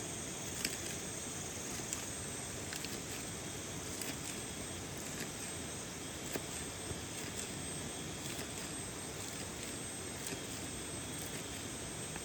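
Steady rain falling, an even hiss with scattered sharper drop taps from rain hitting the shelter close by.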